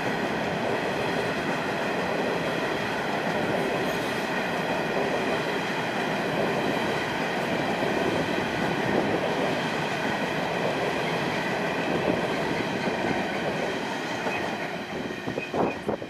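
Coal train wagons rolling past on the rails: a steady rumble of wheels with a steady high-pitched ringing over it. Near the end the noise drops and turns uneven.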